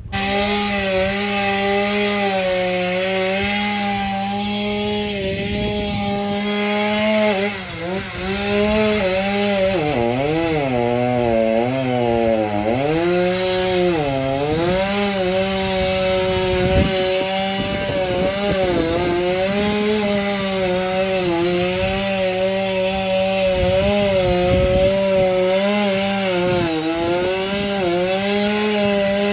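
Chainsaw running at high revs while cutting into a tree trunk. Its pitch drops and wavers for several seconds in the middle as the chain bogs down in the wood, then recovers and holds steady, with a few more brief dips near the end.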